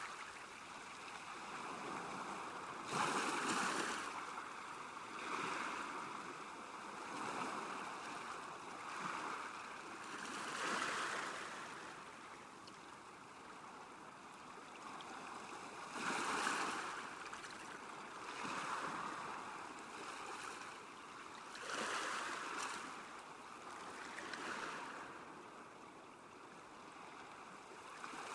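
Small waves lapping at a lakeshore, coming in irregular swells of splashing a few seconds apart. The loudest come about three seconds in and again about sixteen seconds in.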